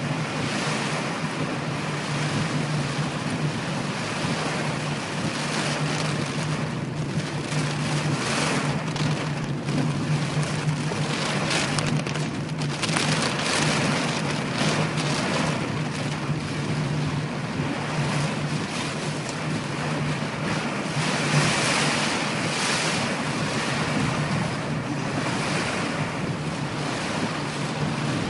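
Torrential rain pounding on a moving car, heard from inside the car, with tyres spraying through standing water. The downpour swells and eases every few seconds over a steady low drone.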